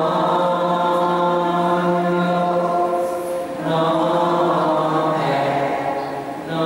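Slow, drawn-out chanting: two long held notes, each about three seconds, the second a little lower in pitch.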